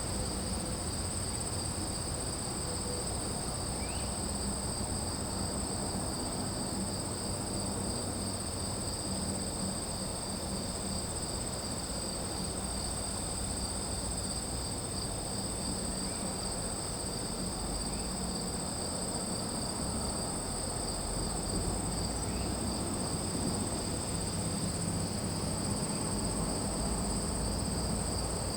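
Night insect chorus, crickets trilling continuously in two steady high-pitched bands, over a low steady rumble.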